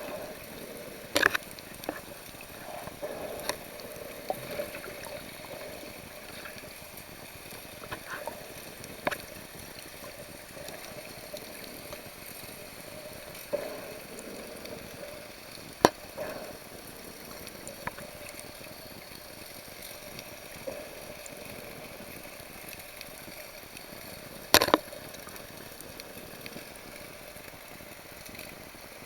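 Sea water sloshing and bubbling against the camera with a steady hiss, broken by scattered sharp clicks and pops, the loudest two about halfway through and near the end.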